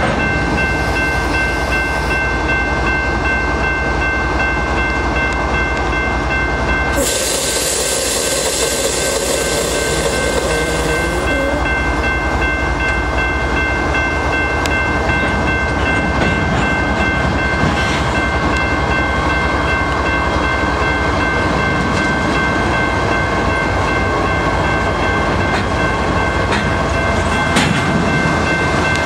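Freight train cars rolling past on the rails, a loud steady rumble of wheels and rail noise, with a steady high-pitched whine above it.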